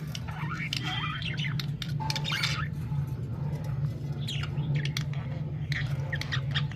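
Colony of budgerigars chirping and squawking in short, scattered calls, busier near the end, over a steady low hum.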